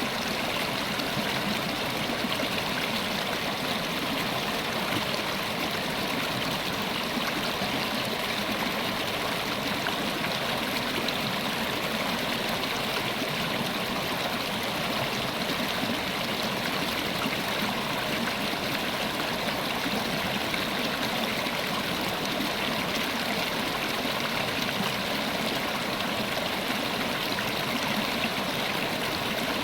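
River water running over rocks, a steady, unbroken rushing with some trickling and gurgling.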